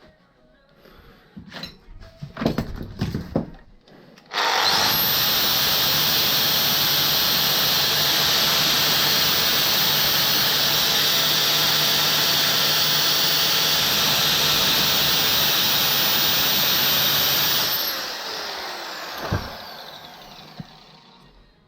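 A high-speed power tool spins up about four seconds in with a quickly rising whine and runs steadily with a loud hissing grind for about thirteen seconds, then winds down with a falling whine. A few knocks and clatters come before it starts.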